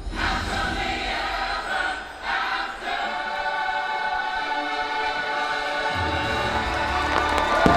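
Fireworks-show soundtrack music with a choir singing long held notes, dipping briefly about two seconds in.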